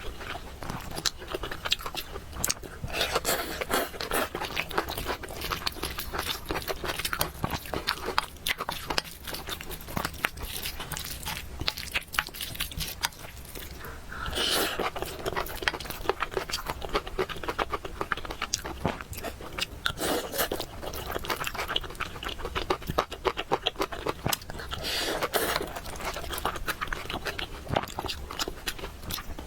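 Close-miked eating sounds of spicy noodles and fried eggs being chewed and bitten, with many small wet clicks and several louder stretches of eating noise.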